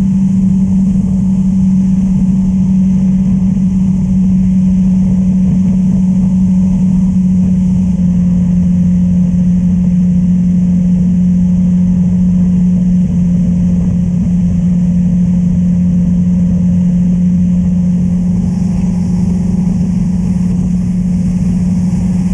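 Honda Transalp 600's V-twin engine running at a steady cruise, one constant drone with no change in pitch, with road and wind rush.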